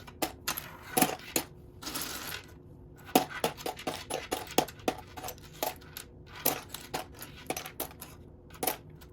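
Loose plastic Lego pieces clicking and clattering as a hand sifts through a pile of them, with a short scraping sweep about two seconds in.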